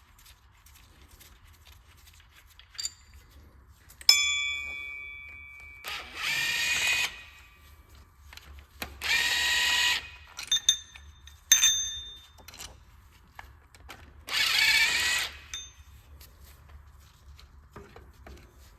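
A handheld power tool whirring in three short runs of about a second each as bolts are backed out. A sharp metallic clank rings out just before the first run, and light metal clinks of tools and parts fall between the runs.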